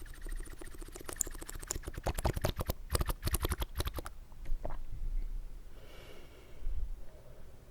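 Close-miked slurping of water in the mouth: a quick run of wet clicks and bubbling between about one and four seconds in, then a few scattered wet clicks and quieter sounds.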